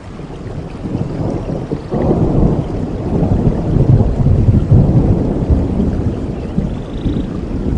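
A roll of thunder over steady rain: a deep rumble that builds about two seconds in, peaks near the middle and slowly dies away.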